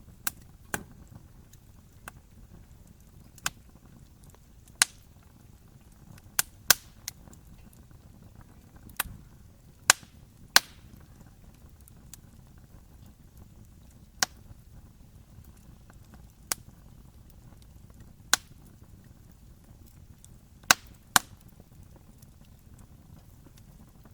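Wood fire crackling: sharp pops at irregular intervals, more than a dozen, over a faint steady low rumble of the burning fire.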